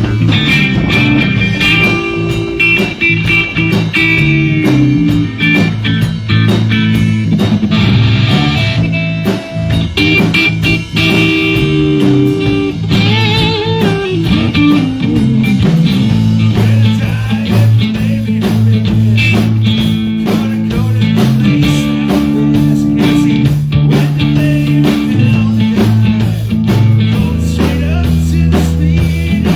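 A live rock band playing an instrumental passage: electric guitar leads over bass guitar and drums. The guitar bends its notes about halfway through.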